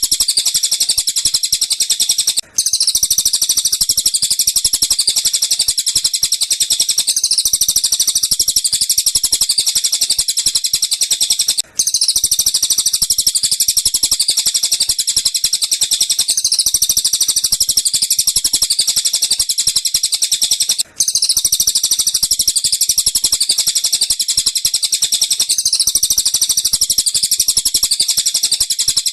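Looped recording of tengkek buto and cililin bird calls played as a masteran track: dense, rapid, high-pitched chirping that goes on without a break, except for three brief gaps about nine seconds apart where the loop restarts.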